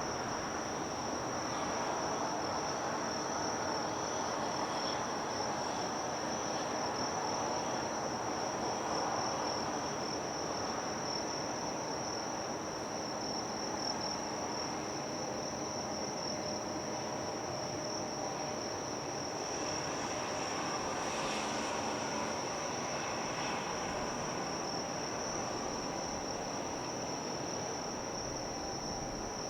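Insects giving a steady, continuous high-pitched trill, over a low hum of background noise.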